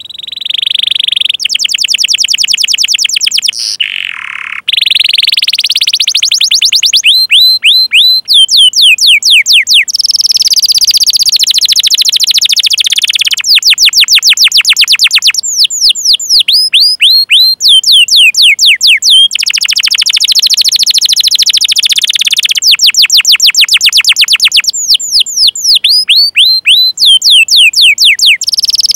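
Canary singing: fast rolling trills alternate with runs of sharp, downward-sweeping 'cuit cuit' call notes, several a second, the song breaking off and starting again every few seconds.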